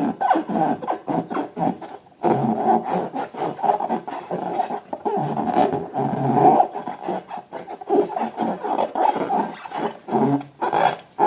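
Rubber balloons squeaking as they are rubbed and squeezed by hand, in a long run of uneven squeaks with a short pause about two seconds in.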